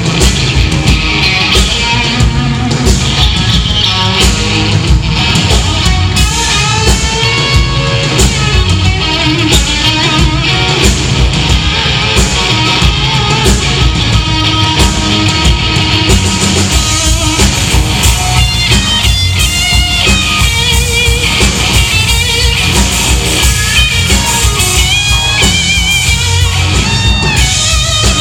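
Live rock band playing an instrumental passage: electric guitar over drums and bass with a steady beat, the guitar playing a busier melodic line in the second half.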